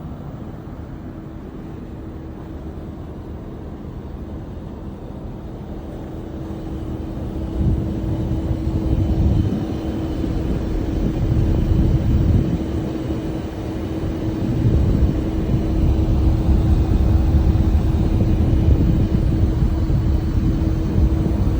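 Heat pump running with a steady hum, joined about eight seconds in by a low rumble that grows louder and surges unevenly.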